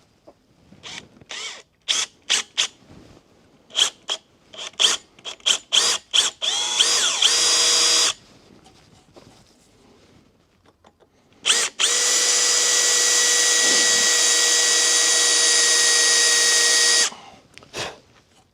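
Power drill boring a 1/8 inch pilot hole into a stuck part of a truck cab latch so it can be drilled out: a string of short trigger pulses, each spinning the motor up, then two longer steady runs and a final short blip.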